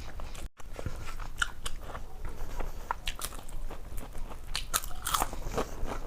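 Close-miked chewing and crunching of food in the mouth, with many short crisp crackles.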